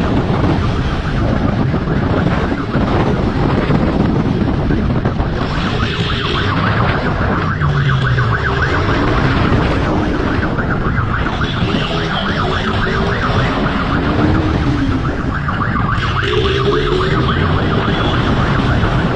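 A siren wailing over a motorcycle engine running at speed, with heavy wind rush throughout.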